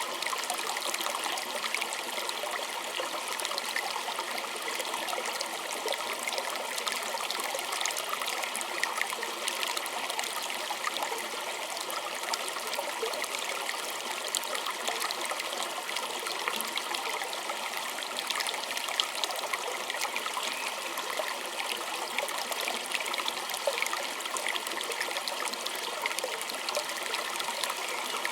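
A small creek trickling and babbling steadily, a dense splashy patter of water over stones with no letup.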